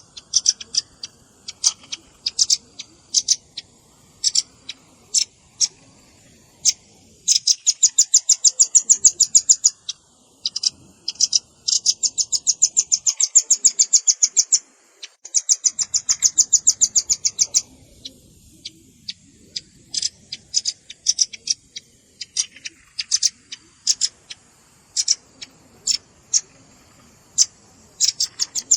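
Velvet-fronted nuthatch calls in a bird-lure recording: sharp, high chips, some single and some in short groups. Three long rapid trills of about eight to ten notes a second come in the middle, with another starting at the very end.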